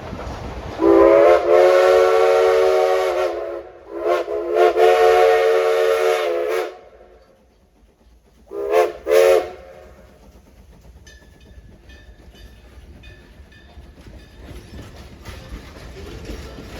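Steam locomotive whistle blowing two long blasts followed by two short ones.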